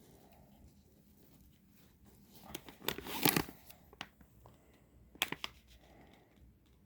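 Packaging crinkling and rustling as items are handled, loudest for about a second near the middle, with a few short clicks and ticks.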